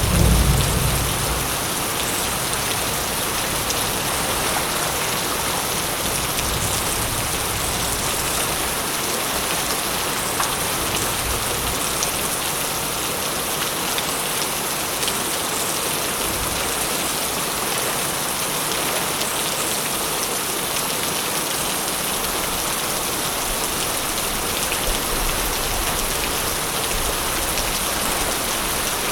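Steady, dense rainfall, an even hiss of drops on surfaces. A low rumble of thunder dies away in the first second or so.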